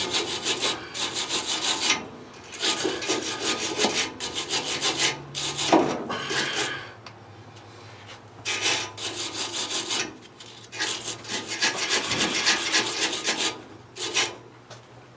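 Rapid back-and-forth scrubbing strokes on old metal pipe threads being cleaned, in bursts of a second or two with short pauses between.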